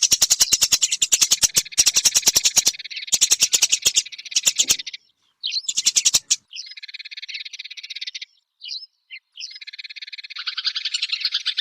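Eurasian tree sparrow chattering: fast trains of sharp chirps in bursts. After about five seconds there is a short break, then softer chatter and a few lone chirps, and the rapid chatter picks up again near the end.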